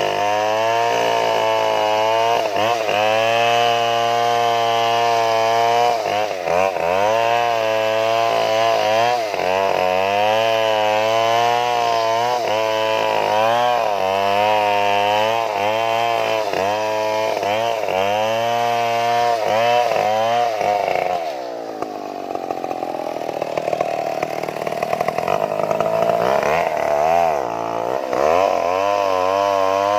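Stihl two-stroke chainsaw cutting into wood, its engine pitch rising and falling as the bar bites and frees under load. About two-thirds of the way through, the engine drops to a lower, steadier note for a few seconds, then takes up the load again.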